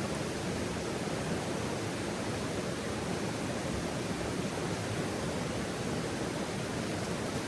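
Steady, even rushing noise of running water, like a stream flowing, with no distinct crackles or pops.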